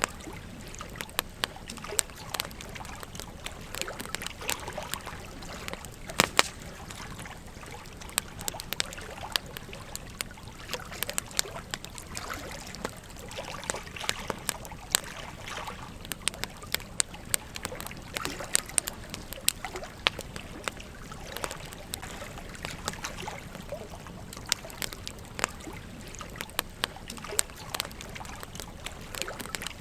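Campfire crackling with frequent irregular sharp pops, over the steady trickle of a gentle stream.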